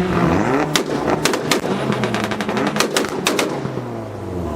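Tuned car engine revving up and down on a two-step launch limiter, with loud exhaust backfire bangs. The bangs come in two rapid clusters, about a second in and again near three seconds in.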